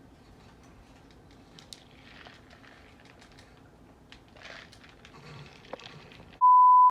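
Faint scattered clicks and rustling, then near the end a loud, steady electronic beep at one pitch lasting about half a second, like an edit or censor bleep tone.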